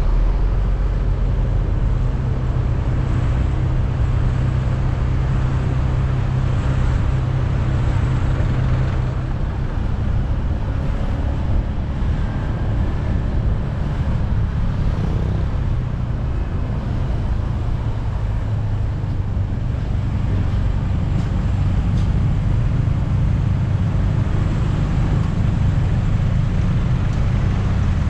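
Steady motor traffic noise with a low engine hum from vehicles running, which eases about nine seconds in and builds again near the end.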